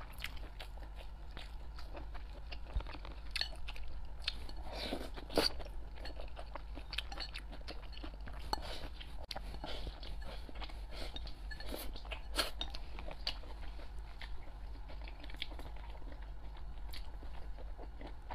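Close-miked eating sounds: chewing and biting rice and braised meat, with many small sharp mouth clicks scattered throughout, the loudest about five seconds in and another near twelve seconds.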